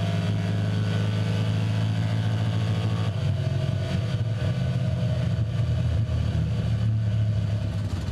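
1968 Camaro's small-block Chevy V8 running steadily at low revs, its note shifting slightly about three seconds in.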